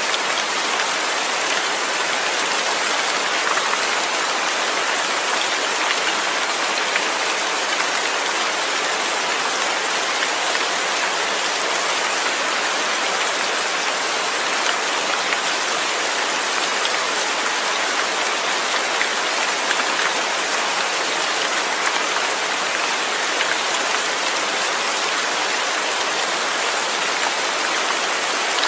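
Steady rain falling: an even, constant hiss of many drops, with faint individual drop ticks scattered through it.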